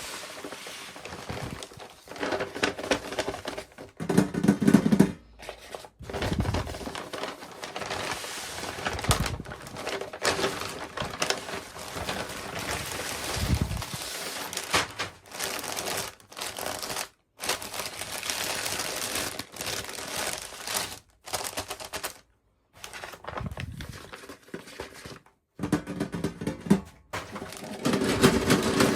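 Small plastic toy pieces and packaging being handled during an unboxing: irregular clicks and taps with crinkling. The sound cuts off abruptly several times.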